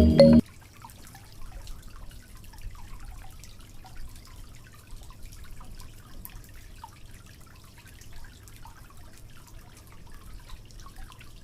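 Quiet dripping and trickling of water, an irregular scatter of small drops.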